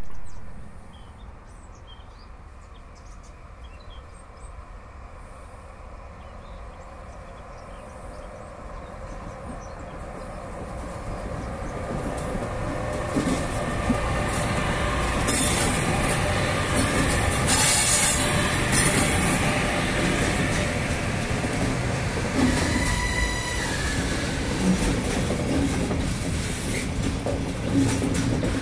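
A departing freight train hauled by two E412 electric locomotives, heard at the trackside, with a brief loud sound at the very start. From about ten seconds in the noise builds as the locomotives draw level and pass. It then settles into a steady rumble and clatter of the wagons on the rails, with short high squeals from the wheels.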